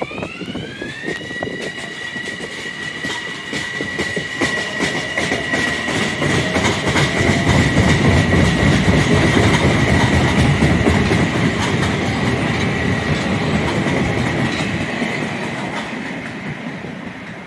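Metro-North M7A electric multiple unit pulling away. Its motor whine rises in pitch in the first second and then holds steady, and the wheels click over the rail joints. The rumble swells to its loudest in the middle as the cars go by, then eases off toward the end.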